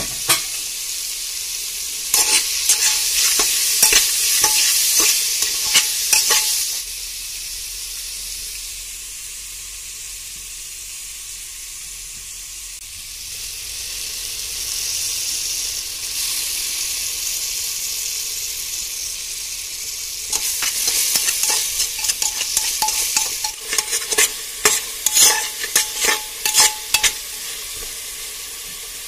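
Chicken pieces sizzling as they fry with spices in an open pressure cooker pot. The sizzle eases off in the middle and grows stronger again from about halfway. A spatula scrapes and stirs against the pot in two spells, from about two seconds in to about seven seconds, and again from about twenty seconds to near the end.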